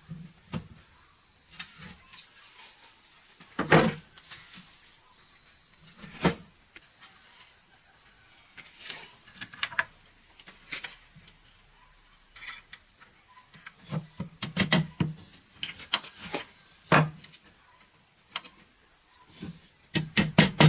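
Wooden knocks and clatter as boards and pieces of the shelf are handled and set down, a few sharp ones standing out, then quick hammer blows on wood starting near the end. A steady high-pitched drone runs underneath.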